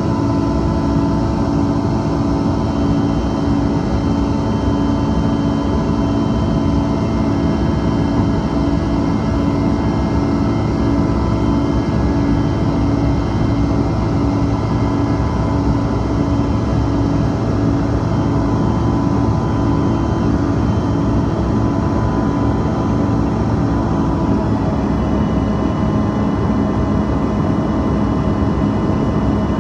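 Steady in-cabin drone of a Bombardier CRJ-200's rear-mounted GE CF34 turbofans in flight, with rushing air noise and several steady engine tones. Late on the engine tones shift, some dropping away and others starting.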